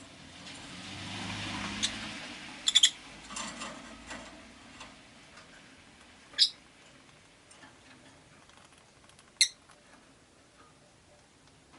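Rosy-faced lovebirds giving short, sharp, high chirps: a quick cluster about three seconds in, then single chirps near six and a half and nine and a half seconds, with small clicks and taps between. A passing vehicle outside swells and fades in the first two seconds.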